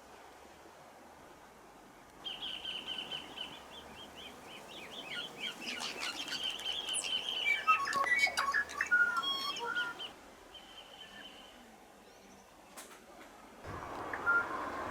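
Tui singing: a long rapid trill, then a jumble of varied whistles, clicks and bell-like notes, loudest in the middle. A steady rushing hiss comes in near the end.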